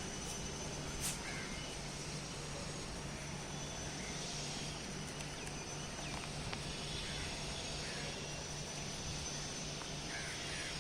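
Steady outdoor background noise with a few short, faint bird calls, one about a second in, some around four seconds in and one near the end.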